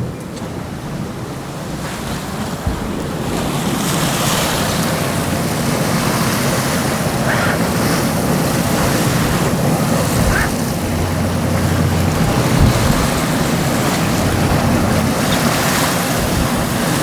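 Rushing sea water and wind buffeting the microphone aboard a sportfishing boat, with a low steady drone underneath.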